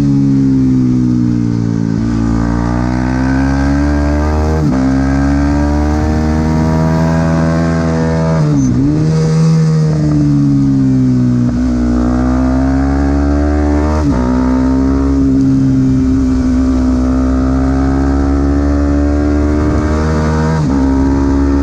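Supersport 300 racing motorcycle engine under hard acceleration, its revs climbing in each gear and dropping sharply at quick gear changes several times, with a brief deep dip and recovery about nine seconds in.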